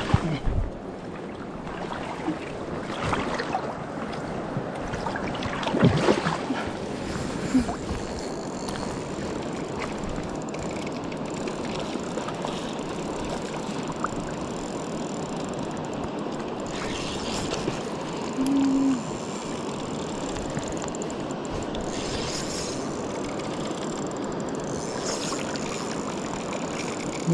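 Steady rushing of river water, with a few brief knocks and rustles about three and six seconds in.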